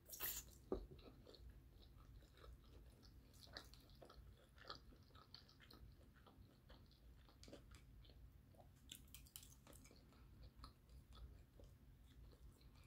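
Faint chewing of crunchy fried chicken wings: scattered small crunches and wet mouth clicks, with a slightly louder crunch right at the start.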